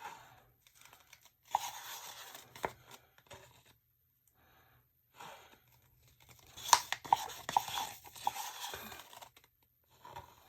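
Paper or plastic being torn and crinkled by hand, in two bouts of a few seconds each, with a few sharp clicks among the rustling.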